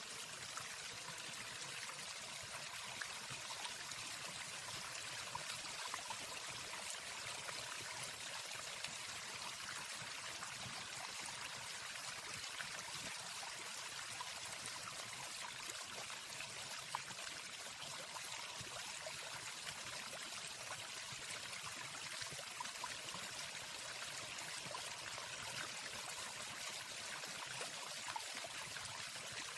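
Waterfall: a steady rush of falling water with no birdsong.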